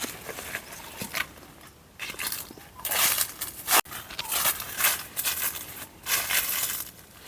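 Footsteps crunching through dry fallen leaves on a forest floor, a series of crisp rustling crunches a step at a time.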